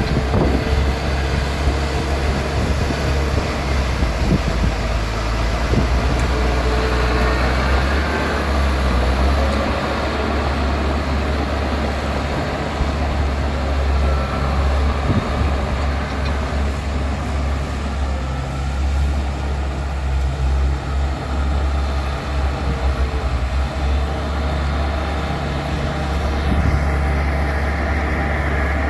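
Bulldozer's diesel engine running steadily with a low drone, with a few scattered knocks over it.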